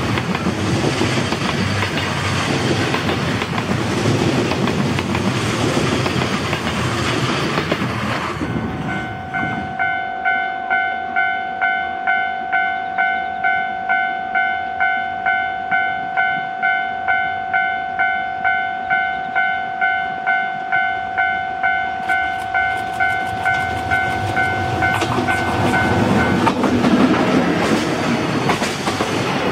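A freight train hauled by an EF64 electric locomotive passes with a steady rumble of wheels on rail. After a sudden change, a railway level-crossing alarm rings its electronic tone about twice a second. Near the end the alarm gives way to the rising rumble and wheel clatter of the approaching train.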